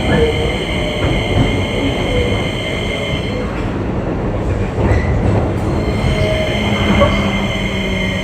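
Keio 8000 series electric train running, heard from inside the car: a steady low rumble of wheels on rail with a constant whine. The high whine fades out about three and a half seconds in, and a low hum sets in near the end.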